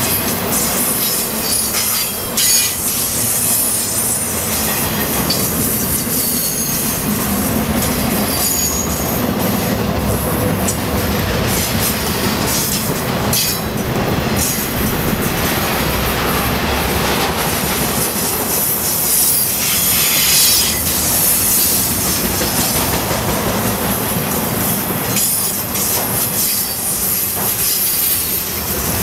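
Intermodal freight cars carrying highway trailers rolling past close by: a steady loud rumble and clatter of steel wheels on the rails, with intermittent high wheel squeals.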